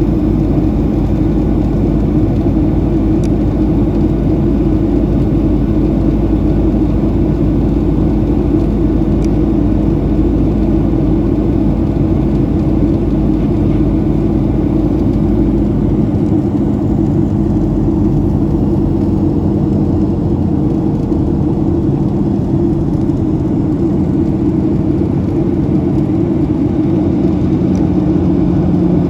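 Steady, loud cabin noise of a Boeing 737-700: its CFM56-7B jet engines and the airflow make an even roar with a steady low hum through it. The deepest rumble eases about 16 seconds in.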